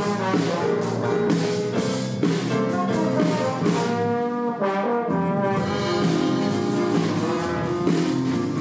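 A brass ensemble playing, with a steady beat of percussion for the first few seconds and then held, sustained notes.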